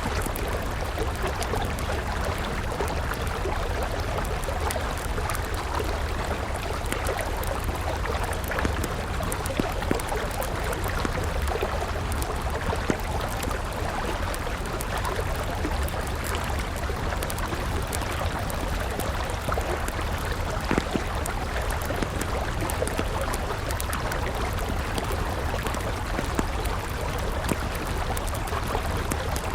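River water running steadily, with scattered small crackles and pops of a wood campfire.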